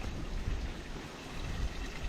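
Water running steadily from a village drinking fountain's spout, under a low rumble.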